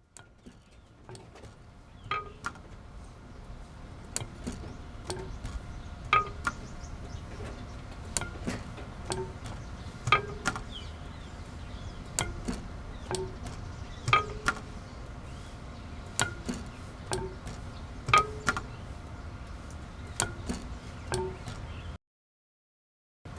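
Sound-art piece of sharp struck knocks, each with a short pitched ring, coming about once a second with a louder strike every two seconds or so, over a faint steady hum. It fades in at the start and cuts off abruptly near the end.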